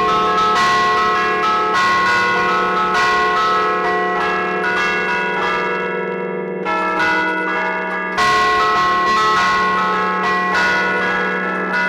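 Church tower bells played from a keyboard in the Bergamasque 'a martellino' style: the stationary bells are struck in a lively festive tune (allegrezza), each note ringing on and overlapping the next.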